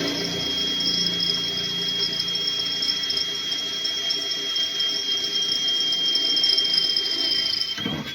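Power drill running steadily with a high, even whine as it bores through a doubled-up section of ABS panel, which takes more effort to drill through; it stops abruptly near the end.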